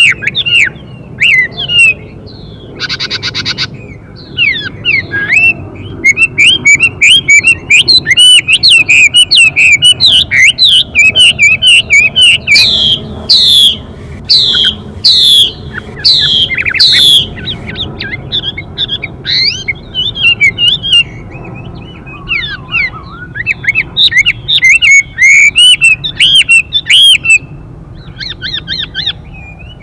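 Chinese hwamei singing a rapid, varied song of chirps and slurred whistles, with a louder run of long down-slurred notes in the middle. A short harsh buzzy call comes about three seconds in.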